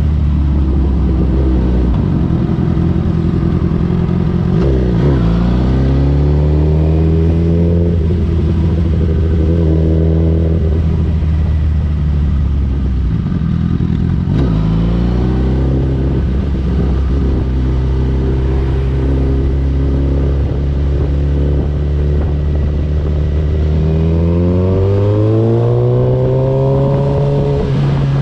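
2008 Suzuki GSX-R1000 K8's inline-four engine under way on the road, its note rising and falling with the throttle. It dips briefly about five and fourteen seconds in, runs at a steady pitch for a while, then climbs steadily in pitch near the end as the bike accelerates.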